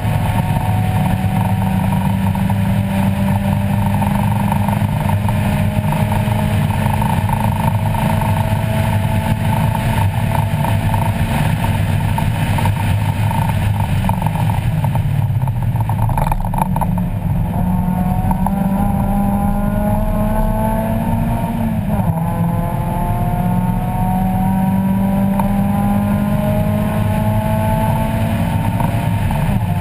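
A 1994 Mazda Miata race car's 1.8-litre four-cylinder engine, heard from inside the cockpit under hard acceleration on track. The revs climb steadily and ease off about 14 seconds in. They climb again, drop sharply at a gear change a few seconds later, then climb once more.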